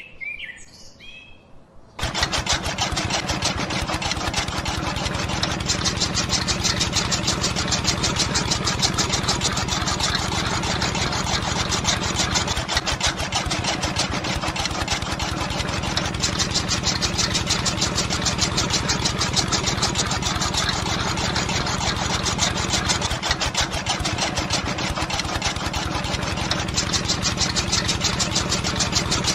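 Faint bird chirps, then about two seconds in a mini tractor's engine sound cuts in abruptly and keeps running steadily with a fast, even beat.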